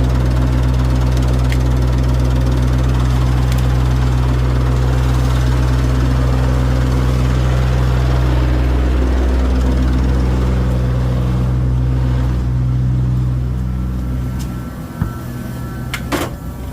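1982 Hyster forklift truck's engine idling steadily, then dying away about 14 seconds in, with a sharp knock as it stops.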